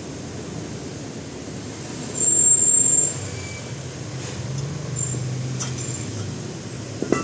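A loud hissing burst about two seconds in, lasting roughly a second, with a thin high whistle in it, over a steady low rumble. A sharp knock comes near the end.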